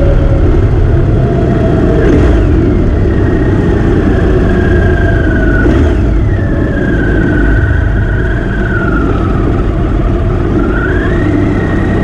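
Motorcycle engine running at road speed under a loud low rumble; its pitch drops sharply about two seconds in and again about six seconds in, sags slowly, then climbs again near the end.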